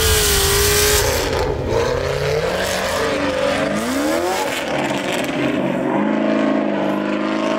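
Chevrolet Camaro SS V8 revving hard during a burnout, its pitch rising and falling again and again. A loud hiss cuts off abruptly about a second in.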